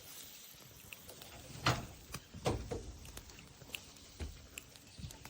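Wood fire crackling with scattered sharp pops, and a few louder knocks about a second and a half in, two and a half seconds in and again near the end.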